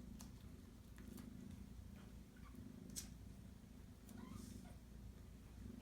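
Cat purring softly in long, repeated breaths, with a few faint clicks, the sharpest about three seconds in.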